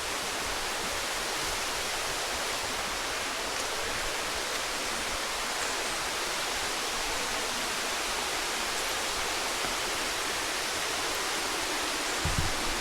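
Steady rushing of a rainforest waterfall and stream, an even hiss of falling water. Near the end there is a brief low thump.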